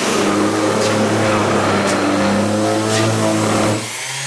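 Electric woodworking power tool running loudly at a carpenter's workbench: a steady motor hum under a rough cutting noise. About four seconds in it drops to a quieter steady hum.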